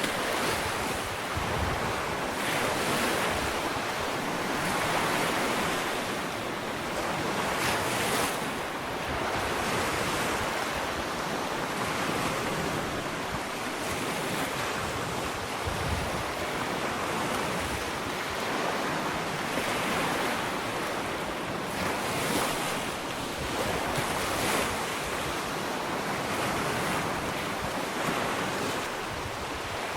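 Gentle ocean waves lapping on a sandy shore: a continuous wash of surf that swells and eases every few seconds.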